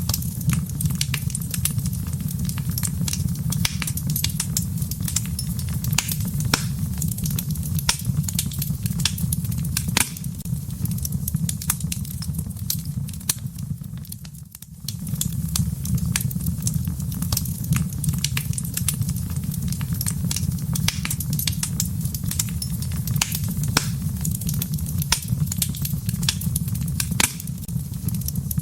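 Wood fire burning in a fireplace: dense, irregular crackles and sharp pops over a steady low rumble of the flames. The sound dips briefly about halfway through.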